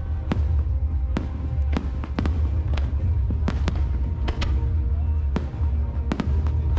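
Aerial fireworks going off in sharp bangs and cracks, about two a second, over music with a heavy, steady bass.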